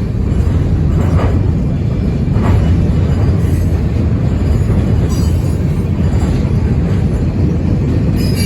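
The CPKC Holiday Train rolling past: a loud, steady low rumble with a faint click about every second and a quarter, like wheels passing over rail joints.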